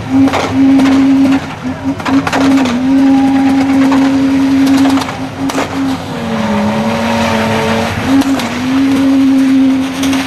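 Car engine held at high, steady revs; its pitch sags for a couple of seconds past the middle, then climbs back. Scattered sharp clicks run alongside it.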